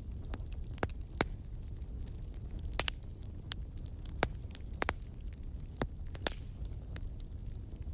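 Fireplace crackling: sharp, irregular pops and snaps, about a dozen, over a low steady rumble.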